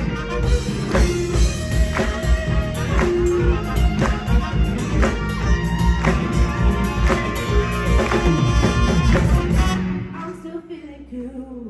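Live band playing a song with drums and bass, stopping about ten seconds in and ringing out briefly.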